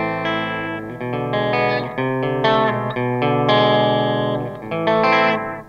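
Schecter C-1 Classic electric guitar played clean through the Line 6 M13's analog delay effect and a small tube amp: a phrase of picked notes and chords that fades out near the end.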